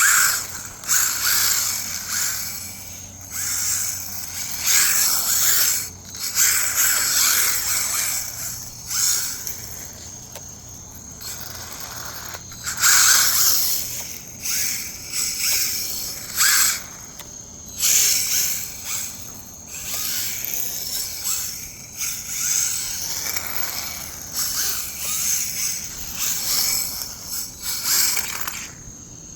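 Electric RC rally car driving and drifting on dirt: its motor whine and spinning tyres scraping loose dirt come in repeated bursts as the throttle is worked on and off.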